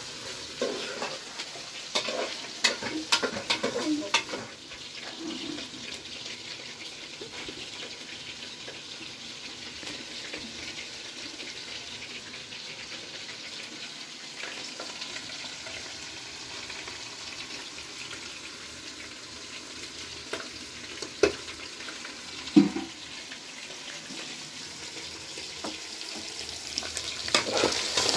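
A steady sizzling hiss, like food frying, with a quick run of clinks and knocks in the first few seconds, two single knocks a little over two-thirds of the way in, and more clinks near the end.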